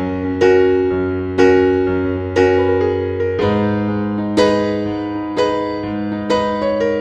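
Background music: a slow, gentle keyboard piece in an electric-piano sound, with a chord or note struck about once a second and left to fade over held bass notes.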